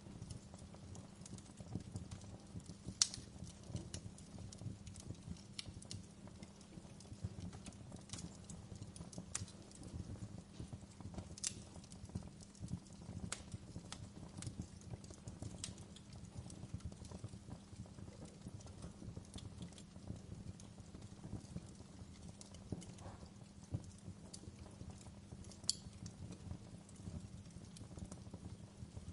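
Wood fire in a fireplace, crackling and popping irregularly over a low, steady rumble of burning, with two sharper pops about three seconds in and near the end.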